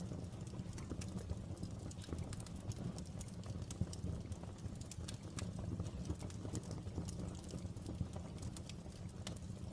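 Outdoor wood fire burning: a steady low rumble of flame with many small, irregular crackles and pops from the burning wood.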